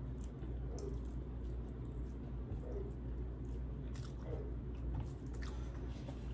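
Close-up chewing and wet mouth sounds of someone eating chicken curry and rice, with scattered small smacks and clicks over a steady low hum.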